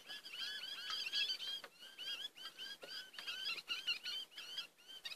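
A flock of small birds chirping: many short, arched chirps in quick, irregular succession, often overlapping.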